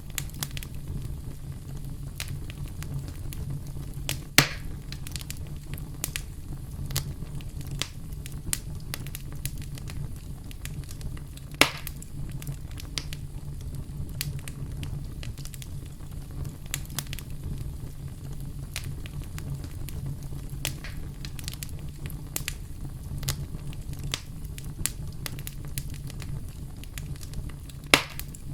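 Wood fire crackling, with many small crackles over a steady low rumble and three louder sharp pops, about 4 and 12 seconds in and near the end.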